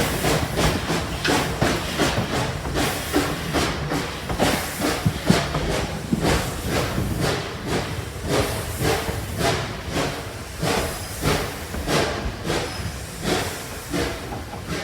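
Steam locomotive working: rhythmic exhaust chuffs at about two beats a second over a steady steam hiss.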